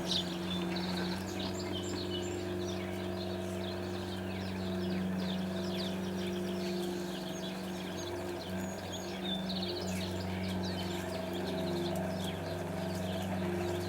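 Small songbirds chirping busily, many short high notes in quick succession, over a steady low hum from some unseen machine.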